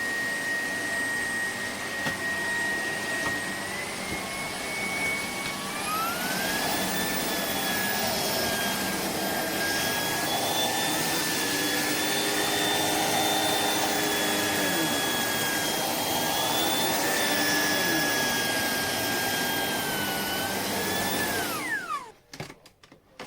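Shark PowerDetect Clean & Empty vacuum motor running with a steady whine. Its pitch steps up twice a few seconds in, then winds down with a falling whine and stops near the end.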